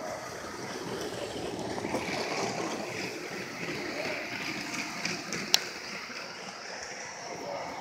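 Indistinct background noise of a busy exhibit hall, a wash of distant voices and room noise, with one sharp click about five and a half seconds in.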